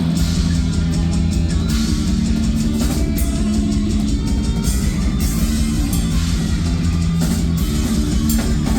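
Live heavy metal band playing an instrumental passage: distorted electric guitar, bass and drum kit with crashing cymbals, loud and steady.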